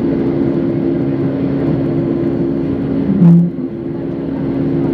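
Jet airliner cabin noise: a steady engine hum with two held tones over a rush of air. About three seconds in, a short, louder low tone with a click stands out.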